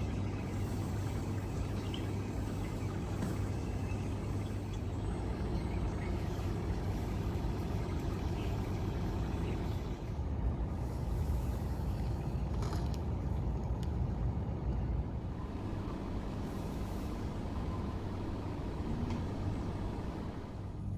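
Steady low mechanical hum of running machinery, with a few faint clicks about halfway through.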